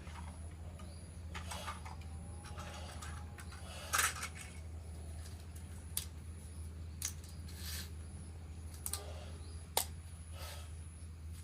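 Scattered small clicks and light knocks of plastic toy train parts being handled, the sharpest about four seconds in and just before ten seconds, over a steady low hum.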